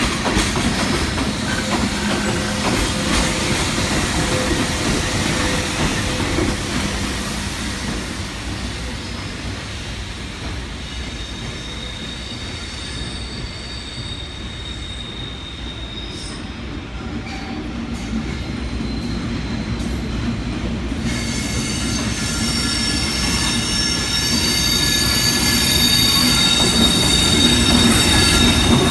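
Freight train's wagons rolling past with a steady rumble of wheels on rail and thin, high-pitched wheel squeal. The rumble eases a little around the middle, then grows louder again, and the squealing tones become stronger about two-thirds of the way through.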